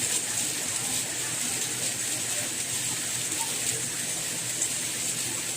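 Steady soft rain: an even hiss of falling drops.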